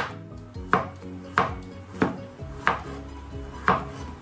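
Kitchen knife slicing through a peeled potato and striking the cutting board: six sharp chops at a steady pace of about three every two seconds, with a short pause before the last one.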